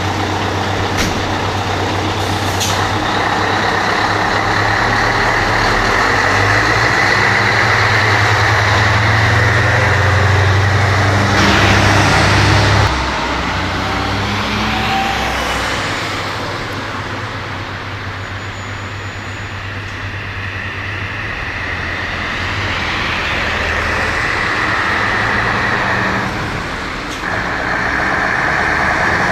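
Scania 143H's V8 diesel engine running, its note and loudness shifting: loudest until about thirteen seconds in, then falling away and swelling again, with a brief dip near the end. A short rush of hissing noise comes about twelve seconds in.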